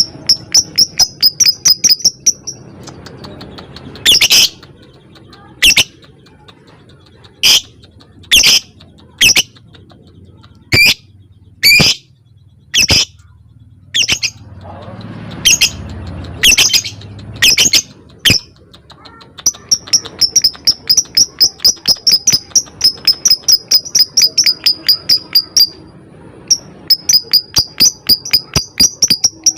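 Lovebird calling: single sharp, high-pitched shrieking chirps, and long rapid runs of ticking chirps at several a second, the trilling 'ngekek' of a lovebird in full song. The runs come at the start, then fill most of the second half with a short break near the end.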